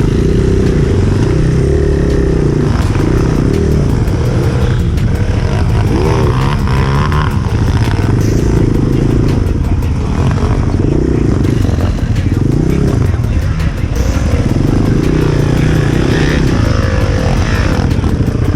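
Enduro motorcycle engine being ridden hard off-road, its revs repeatedly rising and falling as the throttle is worked.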